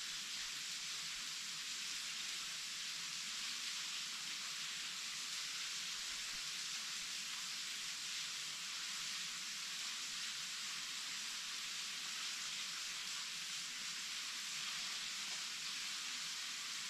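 Waterfall pouring steadily: an even, unbroken rush of falling water, mostly high and hissing with little low rumble.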